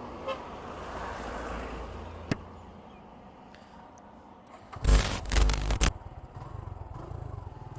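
Suzuki Gixxer 150's single-cylinder engine running at a low idle, with a sharp click about two seconds in and a loud scraping burst lasting about a second near the middle, before the engine's even low pulsing continues.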